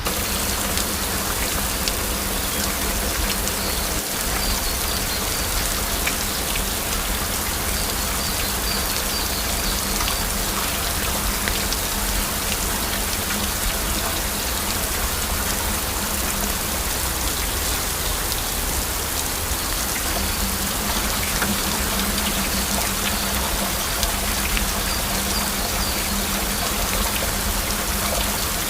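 Steady heavy rain, with many individual drops tapping through a dense, even hiss.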